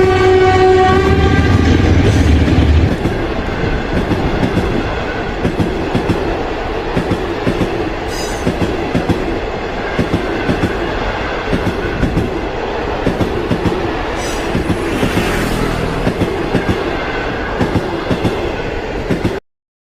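Train horn holding one note for about the first second, then a passing train: a steady rumble with the rhythmic clickety-clack of wheels over rail joints, cutting off suddenly near the end.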